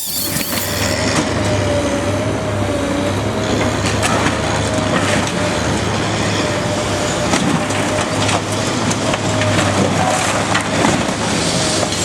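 Heavy demolition machinery at work: a steady engine drone and a wavering whine under continual crunching and cracking as material is crushed and torn apart.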